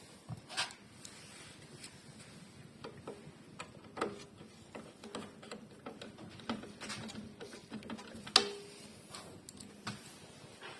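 Scattered small clicks and light knocks of parts and tools being handled while a car's sunroof panel and mechanism are refitted, with one sharper metallic click about eight seconds in that rings briefly.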